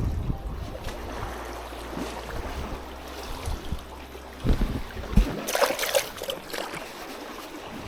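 Strong wind buffeting the microphone in low rumbling gusts, with a short, sharp rustling burst about five and a half seconds in.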